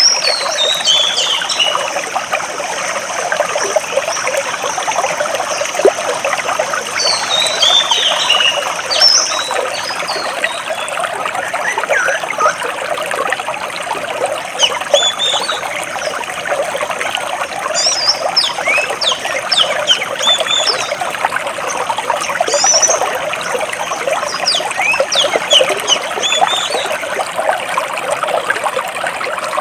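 Stream water trickling and splashing between rocks in a steady rush, with songbirds chirping over it in scattered bursts of quick high notes that fall in pitch.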